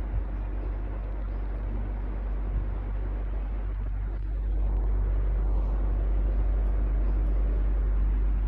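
Electric fan running steadily, a whooshing whir over a strong low rumble, growing slightly louder about four and a half seconds in.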